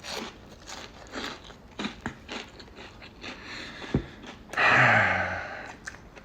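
A person chewing a mouthful of burger and chips close to the microphone, with irregular wet chewing and crunching. About four and a half seconds in there is a louder breathy vocal sound lasting about a second.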